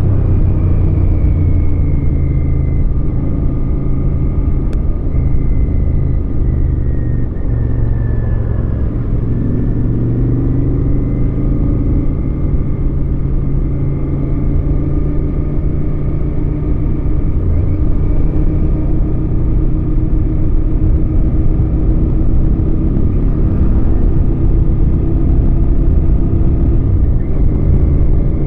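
Royal Enfield Continental GT 650's parallel-twin engine running on the move, a steady rumble whose pitch shifts up and down a few times with throttle and speed.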